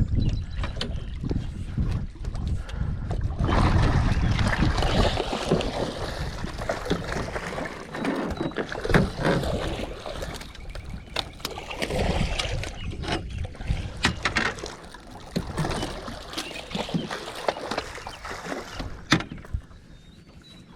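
Water splashing and sloshing against a small fishing boat, with irregular knocks and clatter of handling on board and some wind rumble in the first few seconds.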